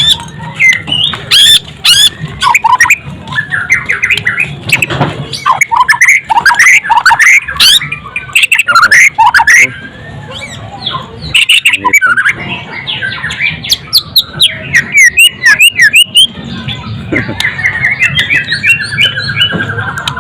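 White-rumped shama (murai batu) singing loudly: a rapid, varied run of whistles and chirps broken by sharp clicking notes, ending in a fast trill that falls slightly in pitch.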